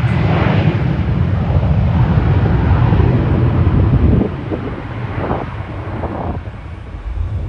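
Wind buffeting the microphone, heavy for about four seconds and then easing, over a steady outdoor rumble.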